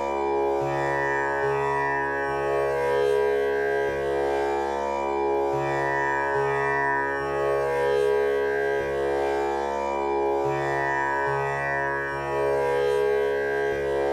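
Tanpura drone tuned to C# for a male voice: its strings are plucked one after another in a slow repeating cycle of about five seconds, each note ringing on with the tanpura's rich buzzing overtones so that the sound never breaks.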